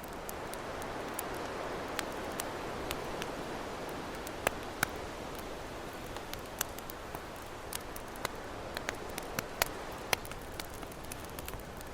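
Wood campfire crackling, with sharp pops scattered irregularly, over a steady wash of ocean waves.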